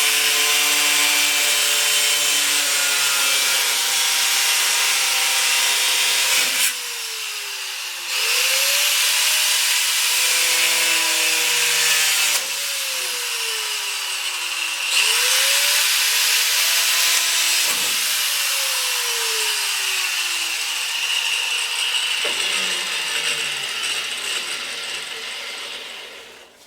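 Angle grinder with a cutoff wheel cutting through fiberglass: a loud, gritty whine. The trigger is let off three times, so the motor's pitch falls as it spins down, and twice it rises again as the grinder is brought back up to speed. The last spin-down fades out near the end.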